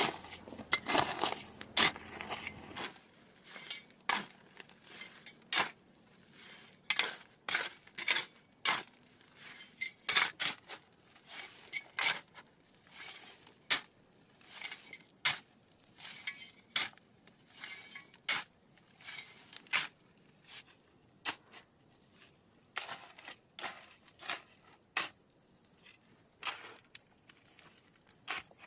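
Irregular series of sharp clinks and knocks of hard objects being struck or set down, about one or two a second, with short pauses between.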